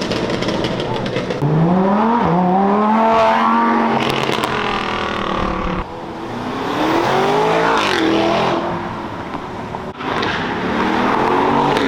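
Cars accelerating hard as they pull away, engines revving up: a rising engine note starts about a second and a half in, a second one climbs around the middle, and a third builds near the end.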